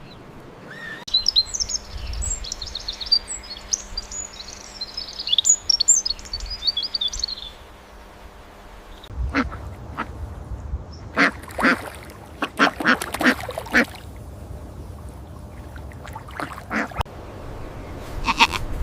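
Ducks quacking in a run of short, loud calls, after several seconds of high-pitched bird twittering.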